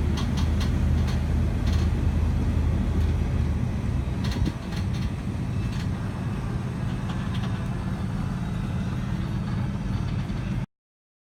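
Car engine and road noise heard from inside the cabin while driving: a steady low drone with some light rattles and ticks. It cuts off abruptly near the end.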